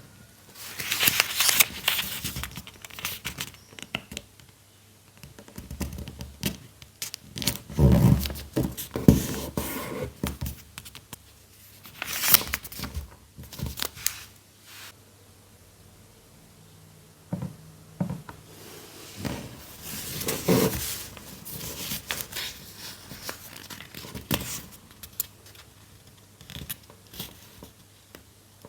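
Paper being handled and worked by hand: crisp rustling, scraping and snipping strokes in irregular bursts, with short quiet pauses between them.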